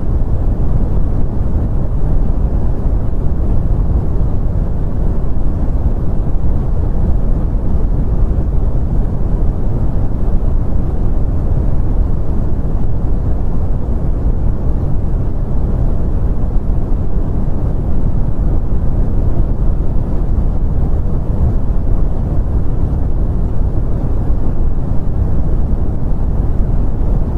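Continuous synthetic brown noise: a steady, deep rumbling hiss, strongest in the bass and fading off toward the treble, unchanging throughout.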